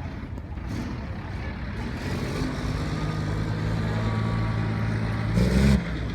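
Scania truck's diesel engine running, growing louder over the first few seconds, with a short, louder burst of noise about five and a half seconds in.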